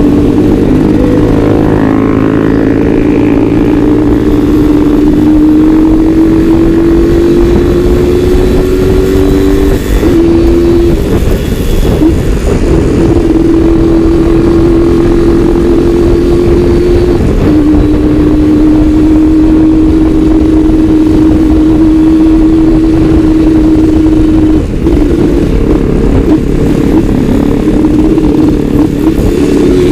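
Suzuki Satria single-cylinder two-stroke motorcycle engine under hard acceleration, its pitch climbing steadily through each gear, with brief breaks at gear changes about ten, twelve, seventeen and twenty-five seconds in.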